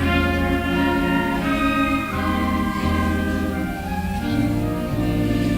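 School band playing a slow piece in held, sustained chords that shift about once a second.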